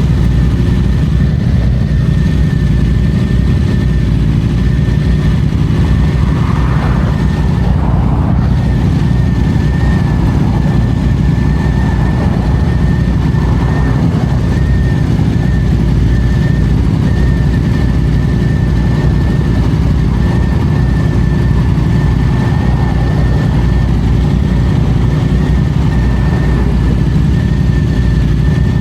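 Yamaha FZ-07's 689 cc parallel-twin engine running steadily, with a thin steady high tone over the low rumble.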